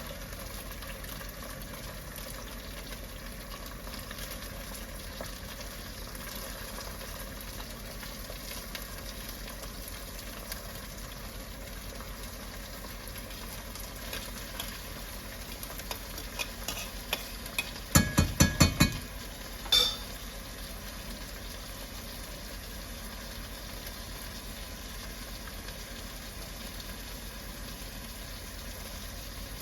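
Food frying steadily in a pan, with stirring. About eighteen seconds in comes a quick run of five or so sharp knocks, then one more a second later.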